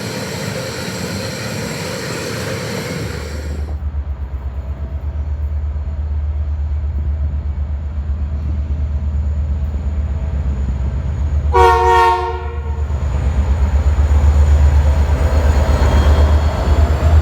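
Diesel freight locomotive approaching with its engine throbbing deeply and growing louder, sounding a short two-tone horn blast of about a second roughly twelve seconds in.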